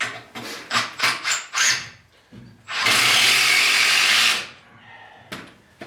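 Wood-framing work: several sharp knocks in the first two seconds, then a power tool runs steadily for about a second and a half.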